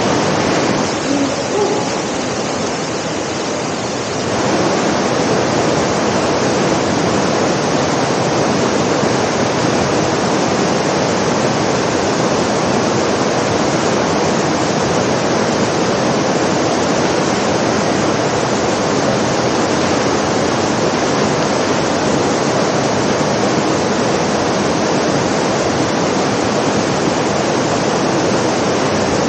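Steady downpour of artificial rain falling from the ceiling of the Rain Room installation, a dense, even hiss of water, a little softer for a couple of seconds near the start.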